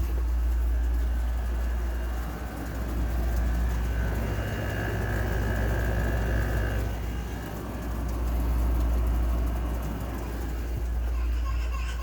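Air conditioners running: a steady low hum under a rushing noise that swells and fades every few seconds.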